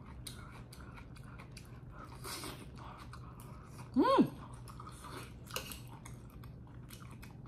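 Close-up mouth sounds of someone chewing a mouthful of tteokbokki, with soft wet clicks and a little crunch. About four seconds in there is a short hummed "mm" of enjoyment that rises and falls in pitch.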